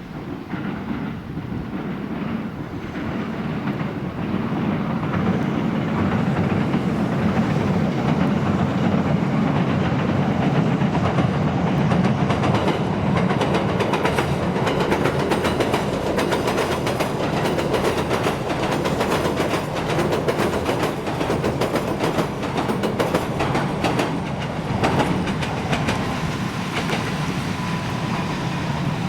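Electric train crossing a railway bridge: a loud rumble with rapid wheel clatter on the rails, building over the first few seconds as the train arrives and then holding steady as the cars pass.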